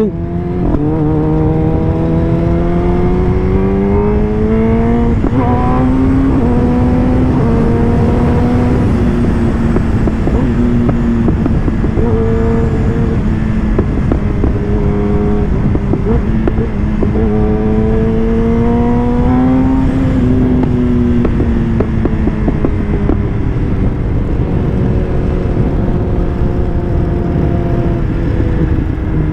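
Kawasaki ZX-10R inline-four engine under way: it pulls up through the gears with several quick shifts in the first few seconds, then cruises steadily, surges briefly about two-thirds through and eases off. A steady rush of wind noise runs underneath.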